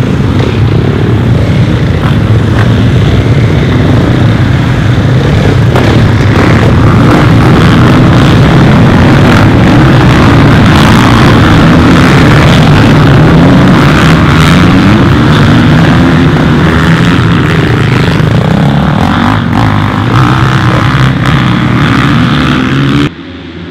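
Motocross bike engines running flat out, revving up and down as they shift through the gears, loud throughout; the sound drops away abruptly near the end.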